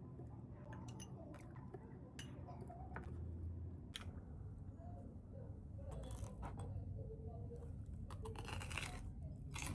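Faint, scattered clicks and light clinks over low room hum, with a denser run of clicks about six seconds in and again near the end.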